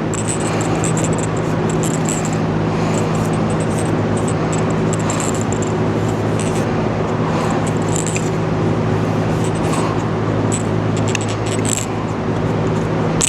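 Steady low machine hum running throughout, with light rustling and small metallic clicks of hand work on a threaded pump part as plumber's tape is wrapped around its threads.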